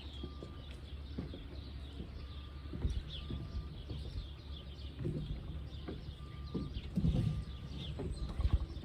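A horse walking, with dull, irregular hoofbeats on soft wet ground over a steady low rumble.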